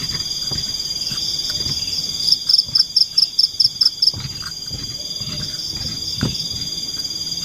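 Steady high drone of forest insects such as crickets, with a quick run of about ten loud high chirps a couple of seconds in and a few soft knocks.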